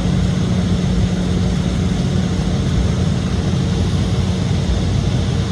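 Steady jet cabin noise of an Embraer E-175, its GE CF34 turbofan engines running evenly with a constant low hum under a broad rush of air. It is heard from inside the passenger cabin.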